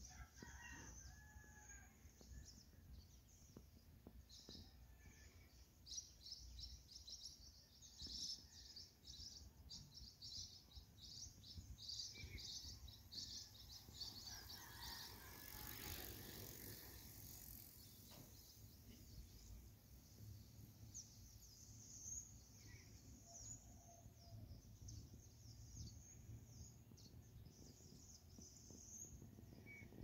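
Faint birdsong: many quick, high chirps, thickest in the first half, with a few lower calls scattered through and a longer, louder call about halfway through, over a low, steady background rumble.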